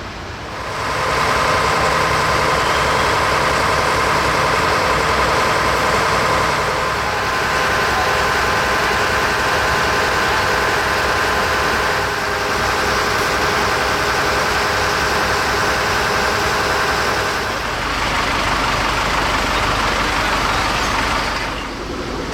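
Heavy fire engine's motor running steadily at raised revs for about twenty seconds. Its pitch shifts slightly a few times before it drops back near the end.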